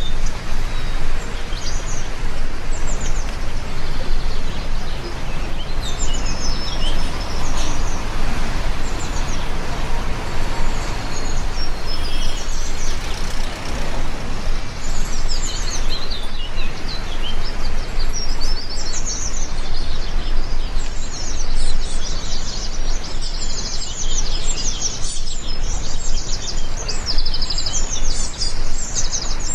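Steady rain hiss, with birds chirping all through, their calls busier over the last third.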